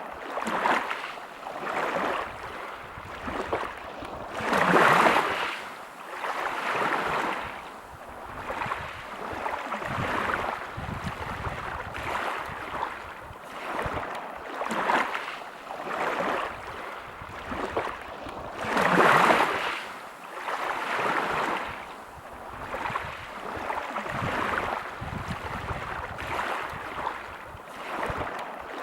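Sea waves breaking and washing over a pebble beach, surging and ebbing every second or two, with two bigger waves about five seconds in and again near the middle.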